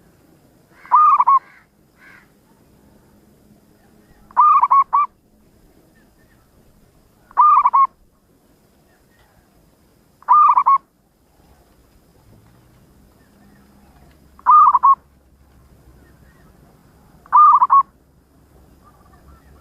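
Zebra dove (perkutut) singing: six short cooing calls, each about half a second long, repeated roughly every three seconds.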